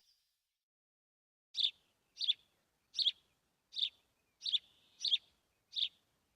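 A bird chirping: a string of eight short, high chirps about two-thirds of a second apart, starting about a second and a half in, with dead silence between them.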